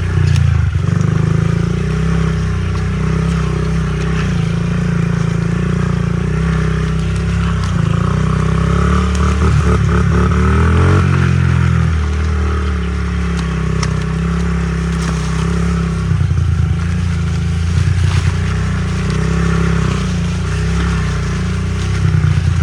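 A Honda CRF50 pit bike's small single-cylinder four-stroke engine running while being ridden, the revs rising and falling with the throttle.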